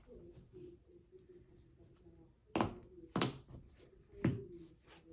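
Three sharp taps as trading cards are put down on the table, about half a second and then a second apart.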